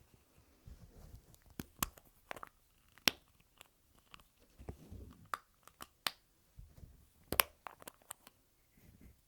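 Lipstick tubes handled close to the microphone: several sharp clicks of the cap snapping on and off, spread unevenly, with soft rubbing and rustling of the tube in the hands between them.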